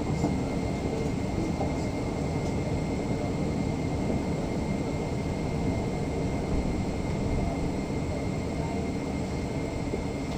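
Steady airliner cabin noise inside a Boeing 777-300ER: an even rush of air and low rumble, with a faint steady high tone over it.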